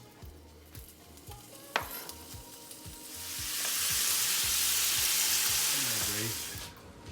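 Marinated chicken frying in oil in a hot pan. A loud sizzle swells up about three seconds in and cuts off abruptly just before the end, after a single sharp click a couple of seconds in.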